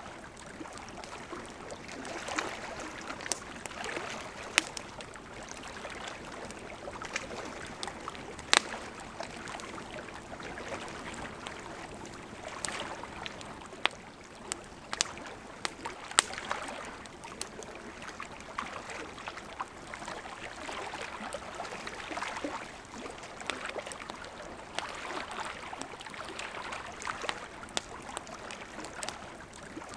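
Burning wood crackling in a campfire: scattered sharp pops and snaps over a steady hiss of flames that swells and fades every few seconds.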